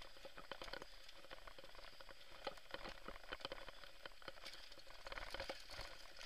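Mountain bike rattling over rough ground on a downhill descent: a dense, irregular patter of small clicks and knocks over a faint hiss.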